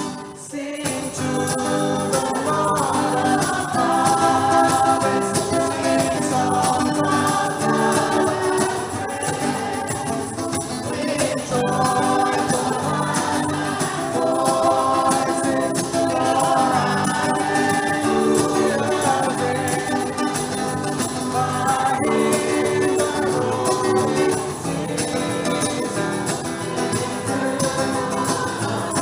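Choir singing gospel-style music with instrumental accompaniment, with a jingling percussion instrument such as a tambourine.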